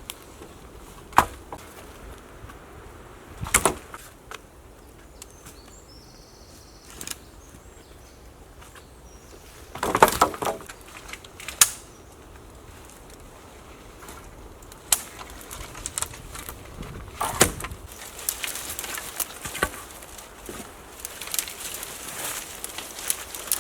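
Wooden tipi poles knocking and clattering as they are pulled down and handled, in scattered single knocks and a louder cluster about ten seconds in, with denser crackling and rustling near the end.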